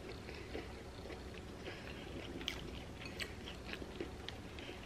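A person chewing food quietly with the mouth, giving faint, scattered soft clicks and crackles.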